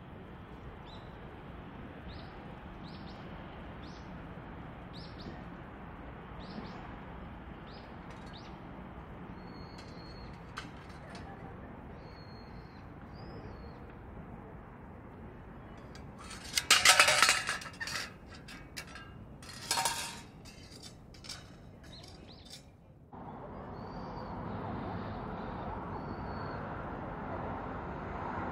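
Short high bird calls repeating about once a second over a steady background hiss. A cluster of loud, sharp clinks comes a little past halfway, with another a few seconds later, and the background steps up abruptly near the end.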